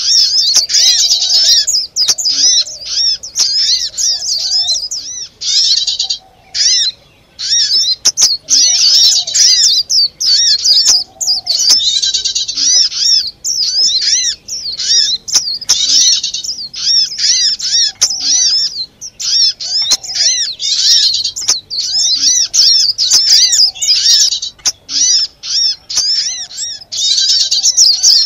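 Many small songbirds chirping rapidly in a dense, noisy chorus, with short breaks: an agitated small-bird lure call used to draw birds in.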